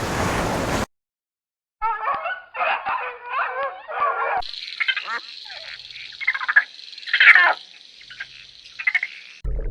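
Animal calls from separate edited clips. A noisy burst cuts off suddenly, and after a short silence comes a run of short calls that waver in pitch. After a cut, more scattered calls sound over a steady high tone.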